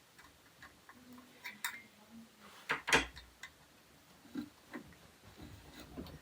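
Light scattered clicks and taps of small metal rack parts and tools being handled during flat-pack assembly, with one louder double knock about three seconds in.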